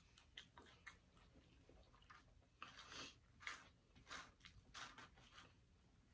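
Faint close-miked chewing and crunching of food, a run of short crackly bursts that is busiest in the middle of the stretch.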